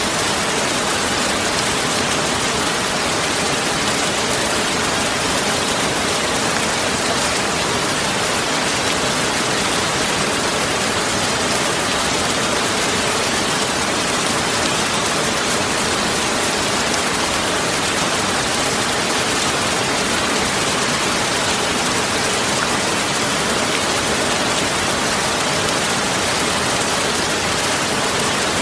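Steady rain falling, a dense, even hiss of drops that does not change.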